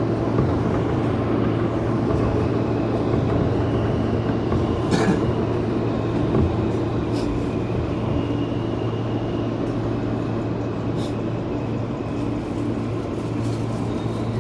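New York City Subway A express train running: a steady rumble with a low hum, broken by a few sharp clicks.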